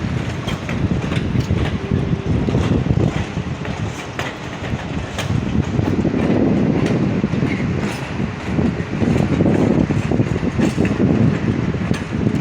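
Class 66 diesel freight locomotive moving out of the yard, its engine rumbling while the wheels click over the rail joints, getting louder about halfway through.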